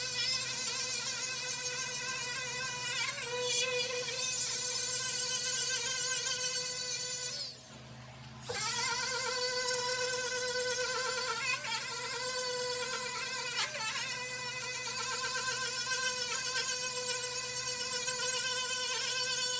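Electric angle grinder running against sheet-metal paint, a steady high-pitched whine with hiss that wavers slightly as the wheel is worked over the surface. It stops briefly about eight seconds in, then starts again.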